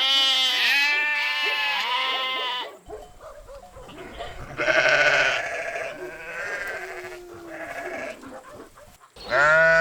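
Sheep bleating: several wavering baas close together in the first three seconds, quieter calls over a low outdoor background in the middle, and one more loud bleat near the end.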